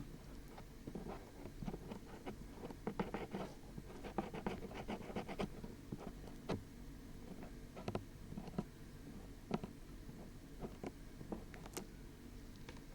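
Dried glue being peeled off the rubber ears of a binaural dummy-head microphone, a close crackling and peeling. The crackles come in dense runs over the first five seconds or so, then thin to scattered single clicks.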